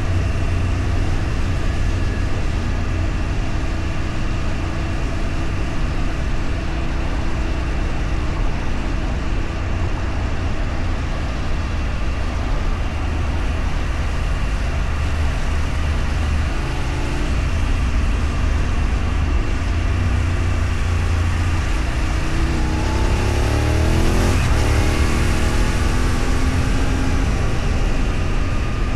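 Steady vehicle engine and road noise on the move, with a deep constant rumble. About three quarters through, an engine tone swells and drops in pitch.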